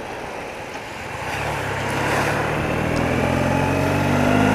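A 30-year-old BMW motorcycle's engine accelerating, pulling up through the revs with a steady rise in pitch and loudness from about a second in, over wind and road noise.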